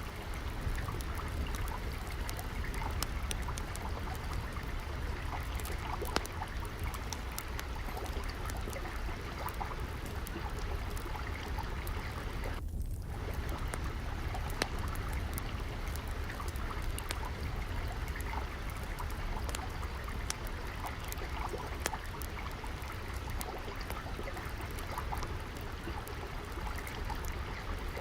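Steady trickling, flowing water, with a scatter of sharp crackling pops from a wood fire over it, a few of them louder. A low rumble runs underneath, and the water sound drops out for a moment about halfway through.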